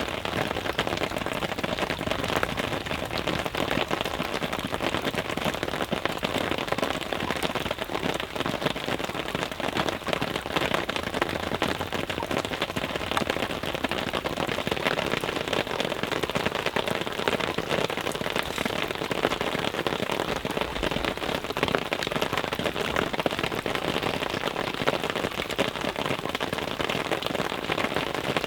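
Steady rain falling on a surface: an even, dense patter of small drops with no break.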